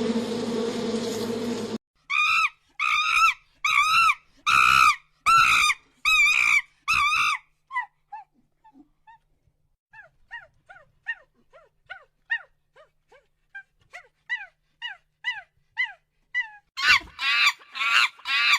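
A steady buzz cuts off about two seconds in. Then comes a run of loud, high, yelping animal calls, each rising and falling in pitch, about one a second. These are followed by quicker, fainter short falling cries, and loud calls start again near the end.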